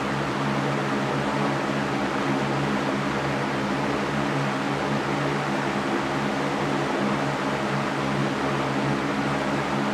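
Electric fan running steadily: an even whoosh of moving air over a constant low motor hum.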